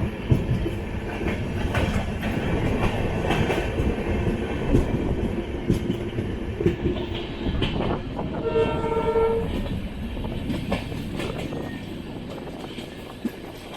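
Express train running at speed, heard from on board: a steady rolling rumble with rail clatter. About eight and a half seconds in, the locomotive's horn sounds once for about a second.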